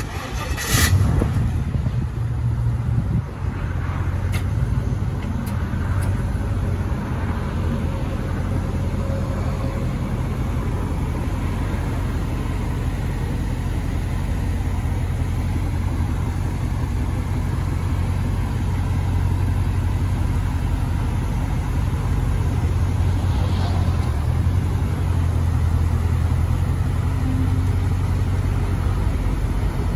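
LS V8 in a 1973 Chevrolet Nova SS running, with a brief loud burst about a second in, then settling into a steady idle.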